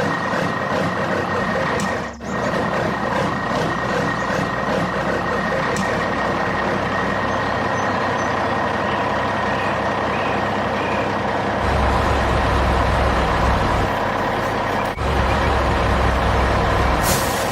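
Heavy construction machinery running: a continuous engine rumble with a steady high tone over it, growing louder and deeper about twelve seconds in.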